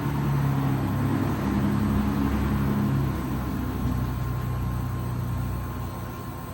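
Rolling thunder: a low rumble that swells at the start and slowly dies away over several seconds.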